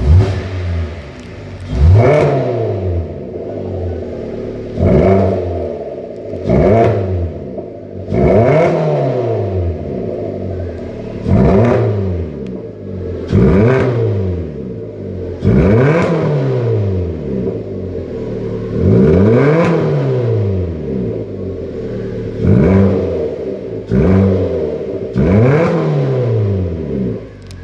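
Hyundai YF Sonata engine blipped repeatedly through an aftermarket variable (valved) exhaust. It revs up sharply and falls back to idle about a dozen times, every two to three seconds.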